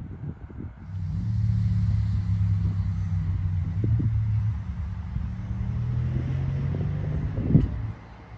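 A car engine running steadily at low revs, with a low even hum. It starts about a second in and cuts off shortly before the end, with a brief sharp knock just before it stops.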